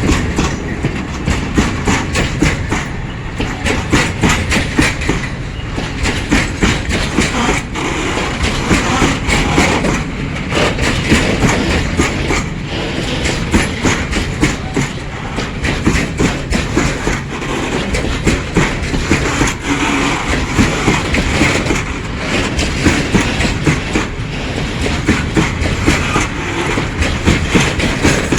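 PKP Cargo freight train wagons rolling past, their wheels clacking steadily over the rail joints over a loud, continuous rumble.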